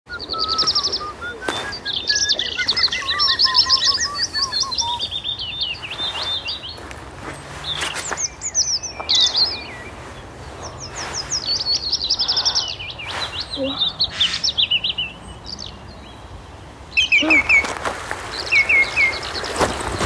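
Several songbirds singing, with fast trills and chirps overlapping one another. About three seconds before the end, a steady rushing noise comes in under the song.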